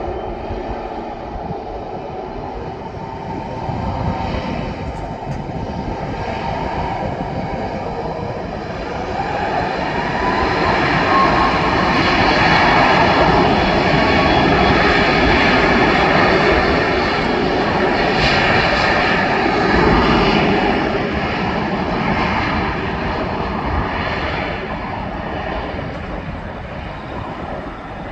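Jet engines of a Boeing 737 MAX 8-200 (CFM LEAP-1B turbofans) on departure. The sound grows louder from about a third of the way in, peaks through the middle, then slowly fades as the airliner passes and moves away.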